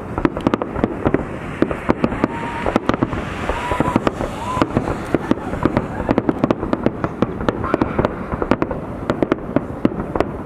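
Aerial fireworks display at full barrage: a dense, continuous run of shell bursts, several sharp bangs a second overlapping one another with crackling in between.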